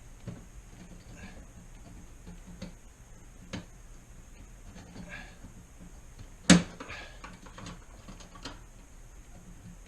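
Plastic and aluminium refrigerator parts being handled and pressed into place: scattered light clicks and knocks, with one loud sharp snap about six and a half seconds in.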